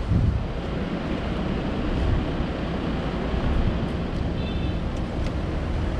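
Wind buffeting the microphone: a steady, heavy rush with a low rumble underneath.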